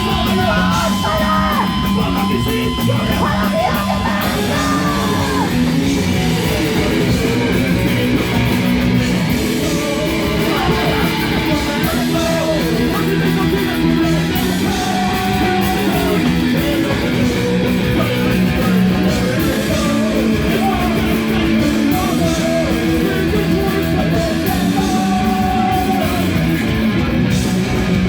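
Rock band playing loudly live, with electric guitar and yelled vocals.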